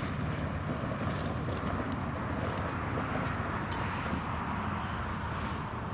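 Freight train rolling past: a steady rumble of wheels on rail, with a few faint clicks.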